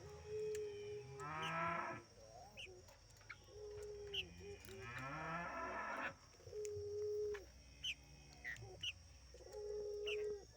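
Puter pelung (ringneck dove) cooing while it bows: a low, steady coo held for about a second, repeated four times, with two rising, rolling coo phrases in between. Small birds give short high chirps in the background.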